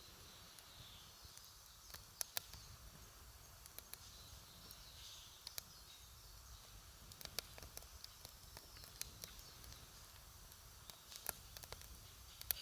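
Wood campfire crackling: sharp, irregular pops and snaps, sometimes two or three in quick succession, over a faint steady outdoor hush.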